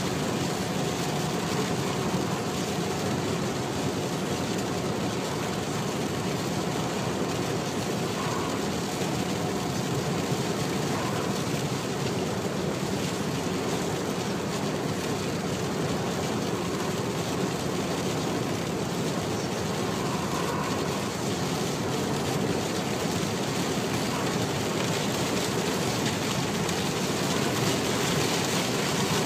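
A car driving on a motorway in a heavy thunderstorm downpour: a steady rush of road and rain noise, with no distinct events.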